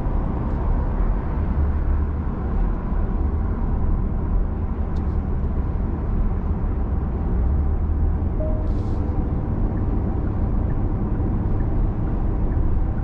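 Steady road and wind noise inside the cabin of a Genesis G80 cruising at expressway speed, a constant low rumble under a soft hiss.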